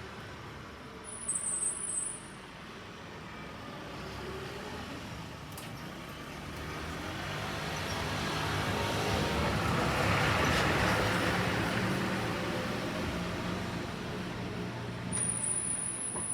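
An electric commuter train running past the crossing: the rolling noise swells to a peak about ten seconds in and then eases off, over a low steady motor hum with a faint whine rising in pitch early on.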